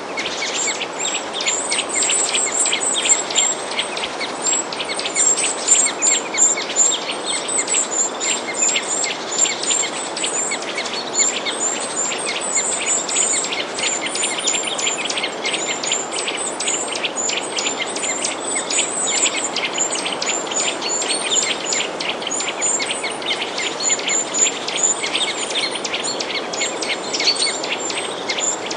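A dense chorus of small birds chirping and twittering without pause, many quick high chirps overlapping, over a steady background hiss.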